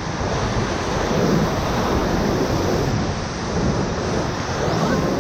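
Whitewater of a river rapid at high water rushing steadily around the raft, with wind noise on the microphone.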